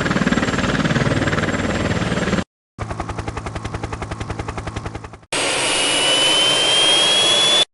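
Military jet engine noise in three cut-together shots: first a steady roar, then a rapid even pulsing about ten times a second, then a steady rush with a high whine rising slowly in pitch as a turbine spools up.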